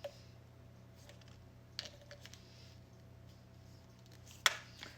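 Light clicks and handling noises from small objects over a steady low hum, with one sharp click about four and a half seconds in.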